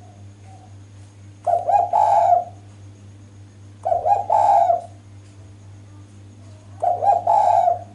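Female spotted dove (derkuku) cooing: three short coo phrases, each about a second long, spaced about two and a half seconds apart. The call is played to lure male doves into answering.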